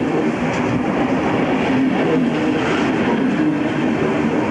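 A train running by on the rails: a steady, loud rolling noise of wheels and carriages.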